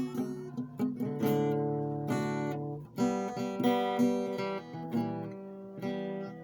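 Background music: acoustic guitar strumming and picking chords, with a new strum about every half second.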